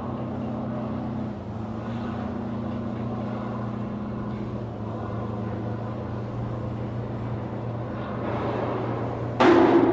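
Steady low machine drone of ship repair yard machinery, with a sudden loud bang near the end.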